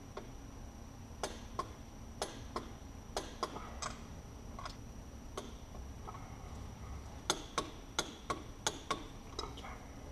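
Sharp metallic clicks from a wrench ratcheting on the cylinder head bolts as they are tightened to torque. The clicks come a few at a time, with a pause in the middle and a quick run of them near the end.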